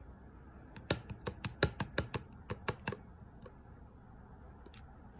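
Pink slime being pressed and squeezed by hand, making a quick run of sharp clicking pops, about a dozen within two seconds, then a few scattered ones.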